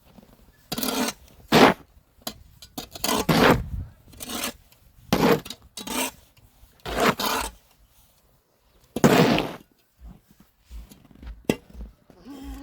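Snow shovel scraping and pushing snow in a series of separate strokes, each a rasping scrape of about half a second.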